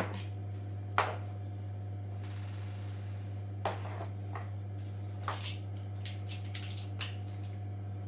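Scattered clicks and knocks of tools and washing-machine parts being handled, over a steady low hum. A soft hiss lasting about a second comes about two seconds in.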